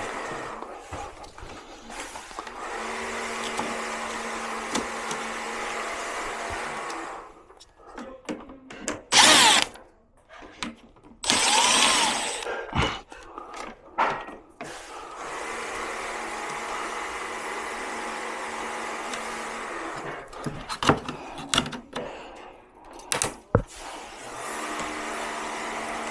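Cordless drill/driver whirring during appliance disassembly: long steady runs, two short louder bursts in the middle where the motor speeds up and slows, and clicks and clatter of screws and plastic parts in between.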